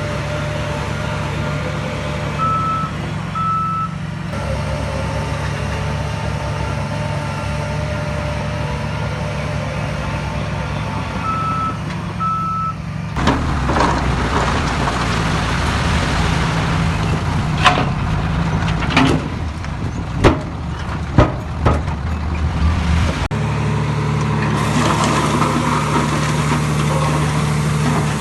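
Diesel engines of heavy earth-moving machinery running steadily, with a reversing alarm sounding two short beeps twice in the first half. About halfway it grows louder, with several sharp knocks and clatters of stones over the engine, then settles back to a steady engine.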